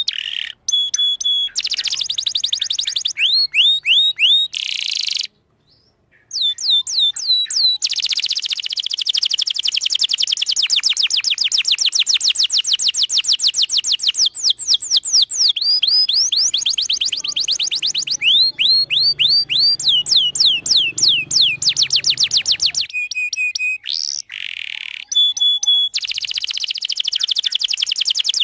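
Domestic canary singing a long song of rapid trills: fast runs of repeated falling chirps, mixed with short steady whistled notes. The song breaks off briefly about five seconds in, and again just before twenty-three seconds.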